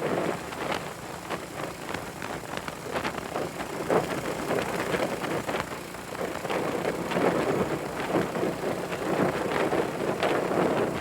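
Wind buffeting the microphone on a moving motorcycle, swelling and dipping unevenly, with the bike's engine and road noise underneath.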